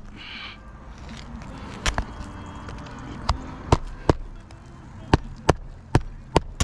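Hammer blows on a roof: about nine sharp, irregular strikes, some in quick pairs, as material is nailed down during a roof-leak repair.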